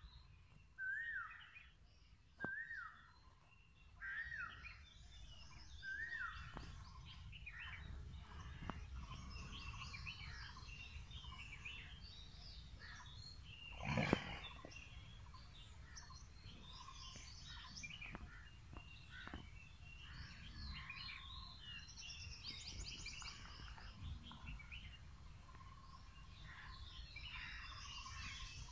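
Several birds chirping and singing, and in the first few seconds one bird repeats a short rising-and-falling whistled note about every second and a half. A single sharp knock about halfway through is the loudest sound, over a low steady rumble.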